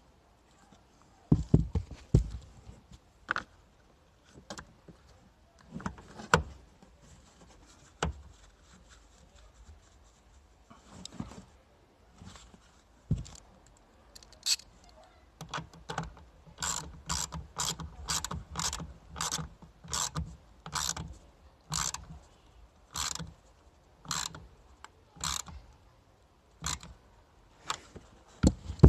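Hand ratchet wrench tightening the battery hold-down stay and terminal nuts. There are scattered metallic knocks and clinks at first, then about halfway through a steady run of ratchet clicks, roughly two a second.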